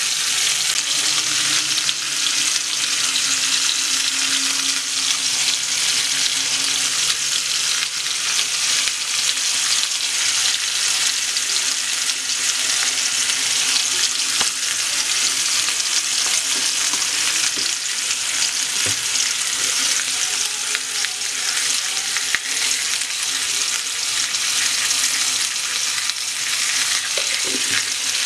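Sliced potatoes sizzling steadily in hot oil in a wok.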